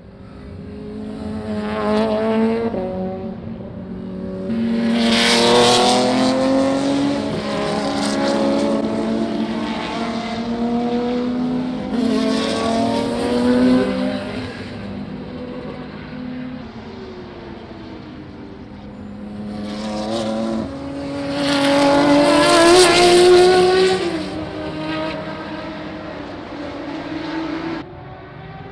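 Historic racing cars passing one after another at full throttle, each engine note swelling as it comes by and fading away, with the two loudest passes about a fifth and about four-fifths of the way in.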